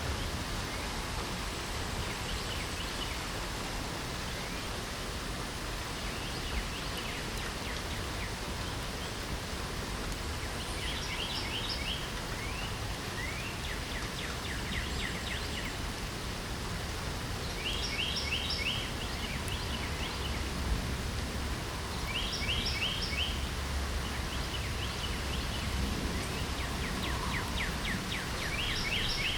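Steady light rain hissing, with birds singing short phrases of rapid repeated notes every few seconds.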